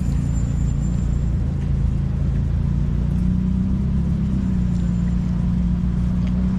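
Motor vehicle engine running nearby: a steady low hum whose pitch drifts slightly, over street traffic.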